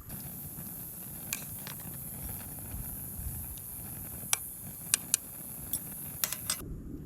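Wood campfire crackling: a steady hiss with scattered sharp pops, most of them in the second half, cutting off abruptly near the end.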